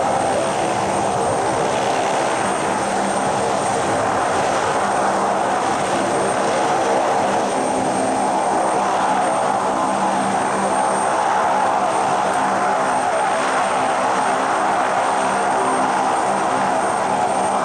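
Twin turboprop engines of a Saab 340B airliner running steadily, a propeller drone with an even hum and a thin high turbine whine above it.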